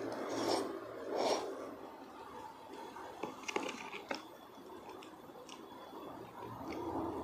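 Close-miked chewing of a mouthful of rice porridge with toppings. From about three to four seconds in, a metal spoon clicks and scrapes against the plastic food container as more porridge is scooped up, with a few single clicks after.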